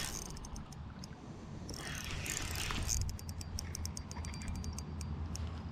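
Fishing reel clicking in fast, even ratchet runs, typical of a reel's drag or gears while a fish is being played.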